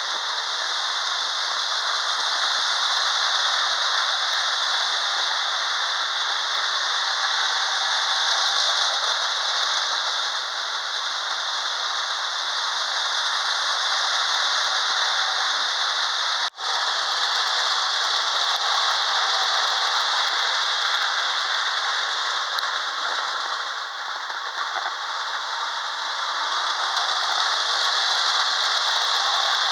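Lionel model train running around its track, with a steady rattling clatter of wheels and motor that cuts out for a moment about halfway.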